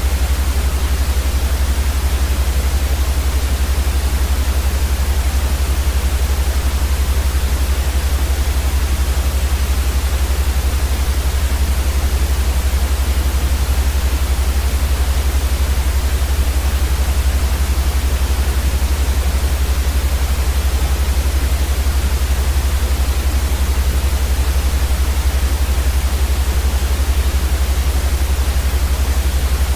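Steady white noise for sleep, an even unchanging hiss with a strong deep rumble underneath.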